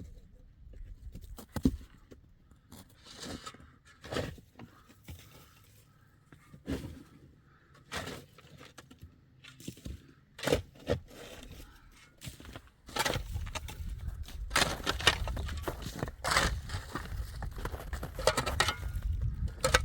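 Irregular knocks, clatter and scraping from hands-on building work, sparse at first and then busier and louder about two-thirds of the way through.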